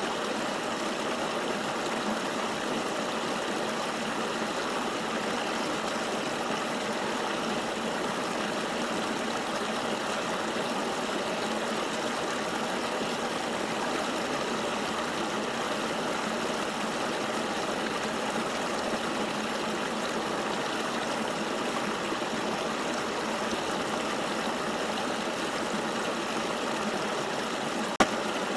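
River water flowing, a steady even rushing with no change in strength. A single brief click comes near the end.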